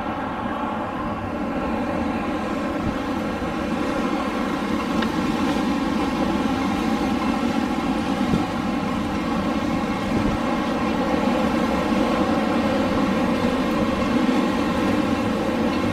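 Steady rushing wind with a constant hum running through it, growing slightly louder over the first few seconds.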